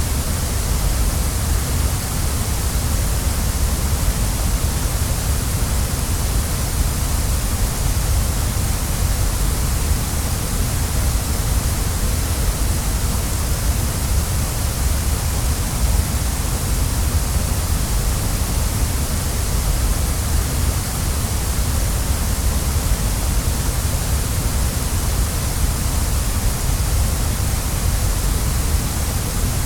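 Waterfall rushing: a steady, unbroken roar of falling water, full in both the deep lows and the hiss.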